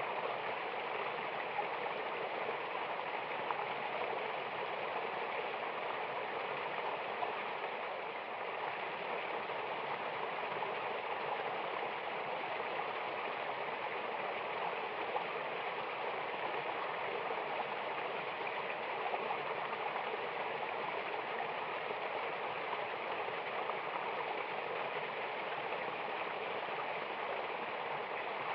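Water of a mountain waterfall and river rushing steadily: an even, unbroken hiss, stronger in the middle and upper range than in the bass.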